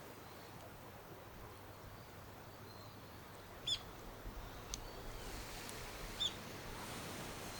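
Quiet outdoor ambience with a faint steady hiss. A bird gives two short, high calls about two and a half seconds apart, with a light click between them.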